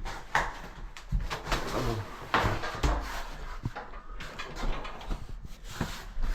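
Irregular knocks, clicks and rustling of equipment and materials being handled.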